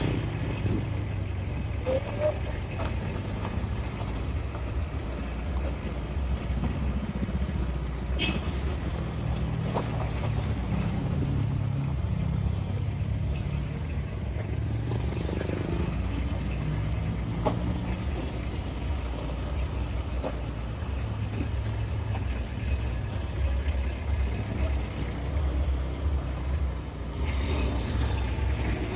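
Motorcycle engine running steadily on the move, its pitch rising and falling through the middle stretch as the rider changes speed.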